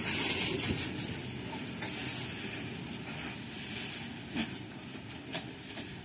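Long freight train of open-top wagons rolling past on the rails: a steady rumble with a few sharp clicks near the end, getting gradually quieter as the brake van at the tail passes and the train draws away.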